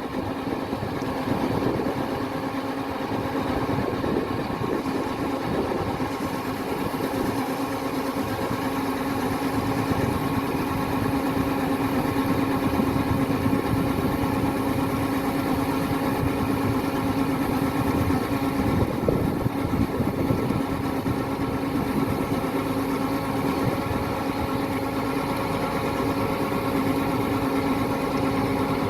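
Kubota DC-105X combine harvester's diesel engine running steadily at a constant pitch, with no revving or change in load.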